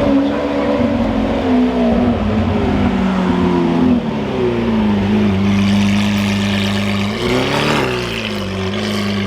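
Car engine running as the car slows, its pitch falling over the first few seconds and then holding steady, with one short rev blip a little before the end.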